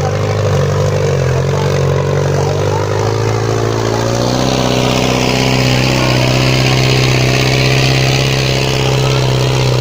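Fiat tractor's diesel engine running hard. Its note wavers at first, then climbs about four seconds in and holds steady at high revs.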